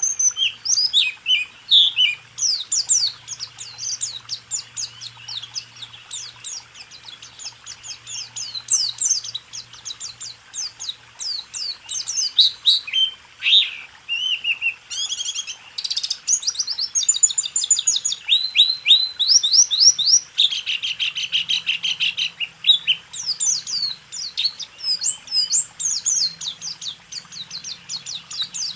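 White-eye (pleci) singing a continuous, rapid song of quick high chirps, trills and sweeping notes with hardly a pause, the rolling 'rol tembak' style used as a tutor recording to train caged songbirds.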